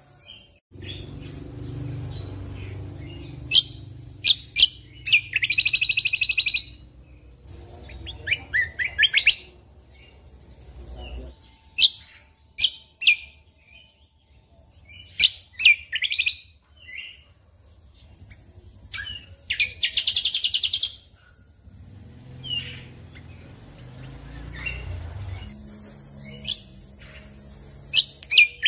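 Cucak kombo (kecial kombok) singing in bursts of sharp high chirps and short buzzy trilled rattles, with pauses between phrases. A low rumble runs underneath during the first third and again in the last third.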